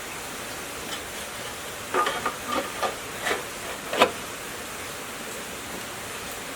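A handful of short knocks and clinks over a steady hiss, bunched together in the middle, the last one the loudest.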